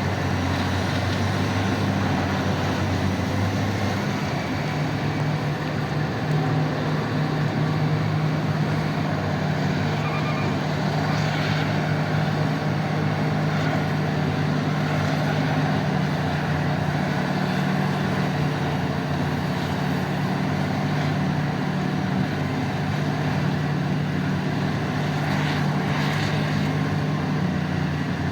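Heavy diesel mining machinery running steadily, its engine note stepping up in pitch about four seconds in, with two brief rattling noises over the engine sound.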